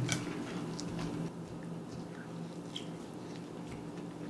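Quiet eating sounds: chewing on okonomiyaki, with a few light clicks of chopsticks against plates, over a low steady hum.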